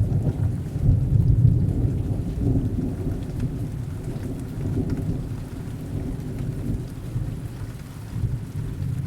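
Distant thunder rumbling low under heavy rain. The rumble swells about a second in and slowly fades over the following seconds, with the rain's steady hiss continuing beneath.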